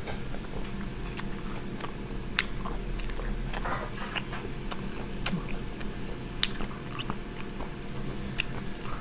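A person eating seafood: chewing with scattered sharp clicks and smacks, over a steady low hum.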